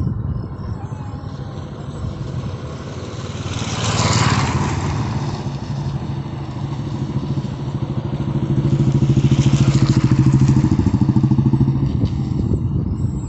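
A motor vehicle engine running steadily, with a low, fast, even pulse. It swells louder with a hiss twice, about four seconds in and again around ten seconds.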